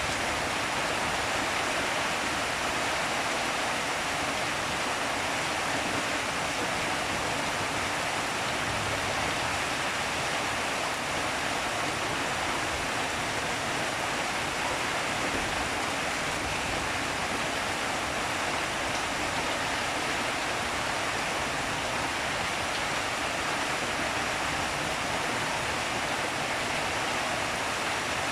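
Rain falling steadily, an even hiss that holds the same level throughout with no separate impacts or thunder.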